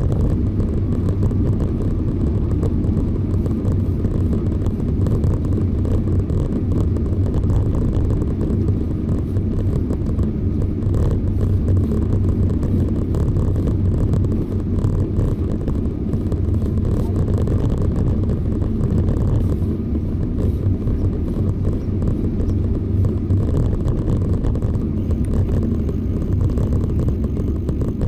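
Steady low rumble of a moving bicycle ride: wind buffeting the microphone along with road noise.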